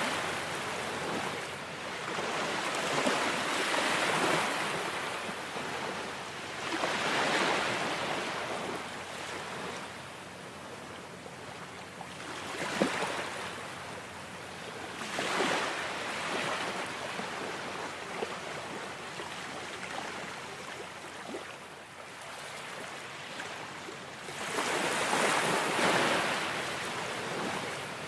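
Ocean waves breaking and washing up on shore, the surf swelling and falling away in irregular surges several seconds apart.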